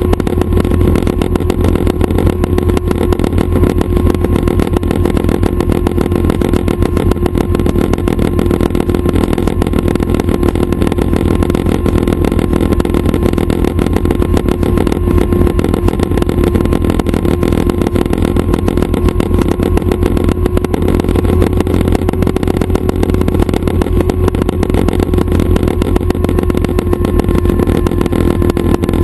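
Schweizer 269 light helicopter running steadily: a constant engine-and-rotor drone with a steady tone, loud and unchanging throughout.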